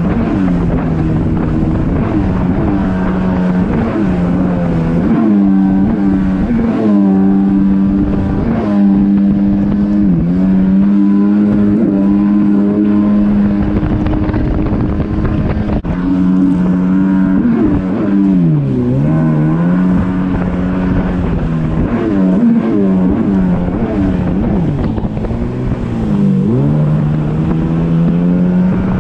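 Yamaha WaveRunner jet ski engine running under way, its pitch dropping and climbing back several times as the throttle is eased off and reapplied.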